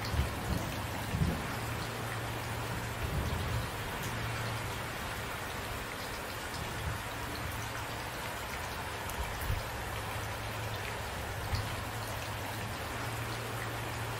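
Steady rain falling and hissing, with a few brief low thumps scattered through it.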